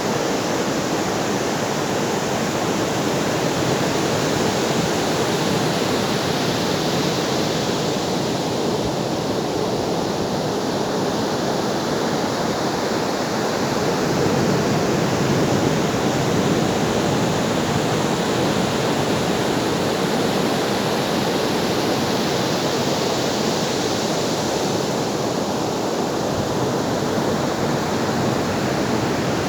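Ocean waves washing on the shore: a steady rush of surf whose hiss swells and fades slowly, rising twice.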